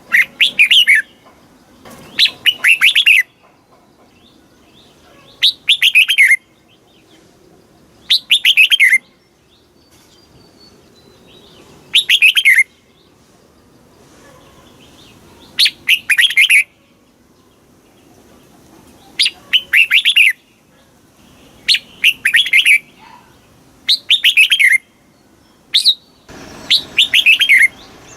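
Red-whiskered bulbul singing: short, bright phrases of quick falling notes, each under a second, repeated every two to four seconds.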